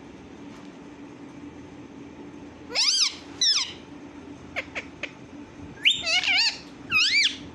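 Pet parrot making a run of short, high-pitched calls that glide up and down in pitch, beginning about three seconds in.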